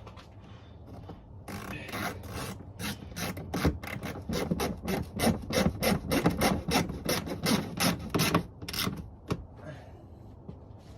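Hand-tool work: a quick run of rasping strokes, about three to four a second, starting about a second and a half in and stopping near the end.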